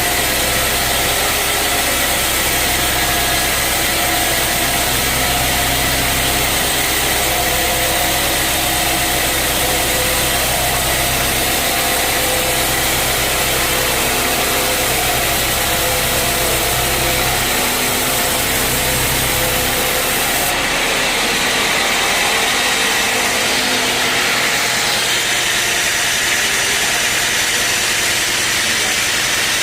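Sawmill machinery running: a steady, loud engine-like drone mixed with dense noise. About 20 seconds in, the low rumble drops away and the sound shifts to a thinner, higher noise.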